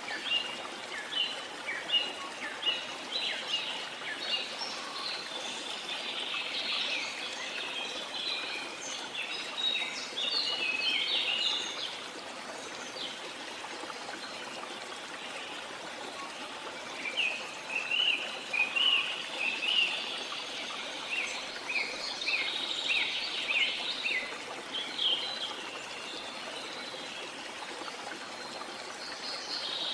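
Several birds chirping and calling in quick bursts over the steady rush of flowing water, with a lull in the birdsong for a few seconds partway through.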